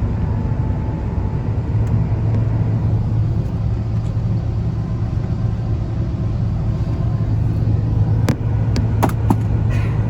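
Steady cabin rumble of an Airbus A350-1000 airliner in flight, with a strong low hum. A few sharp clicks or rattles come about eight to nine seconds in.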